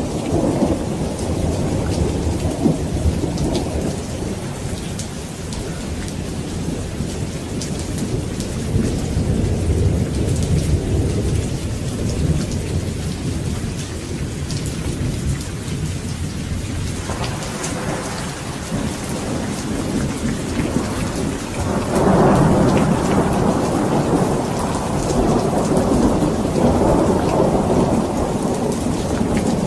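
Steady heavy rain with rolling thunder: a constant hiss of falling rain and drops, under low rumbles that swell and fade, growing louder about 17 seconds in and again about 22 seconds in.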